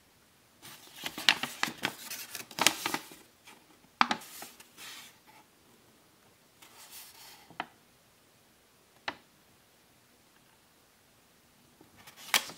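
Handling noises from ceiling-fan parts being moved about: a cluster of clatter and rustling in the first few seconds, then a few separate sharp clicks with quiet between them.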